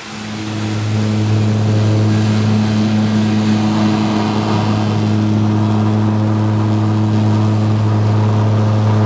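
An engine running at a steady speed: a constant low drone that starts abruptly and holds one pitch.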